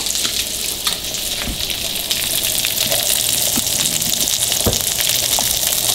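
Yellowtail snapper fillets and cilantro sizzling steadily in hot olive oil in a frying pan on high heat, with a few faint clicks.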